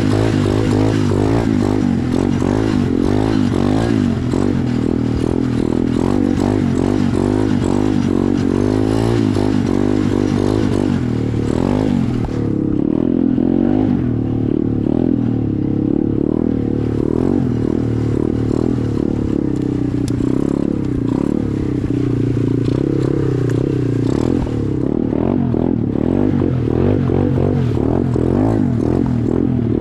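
SSR 125 dirt bike's single-cylinder four-stroke engine running while ridden, its revs rising and falling over and over as the throttle is worked.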